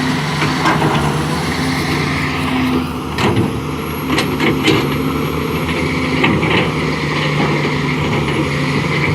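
Excavator's diesel engine running steadily under load while it works soil, with several sharp knocks about three to five seconds in.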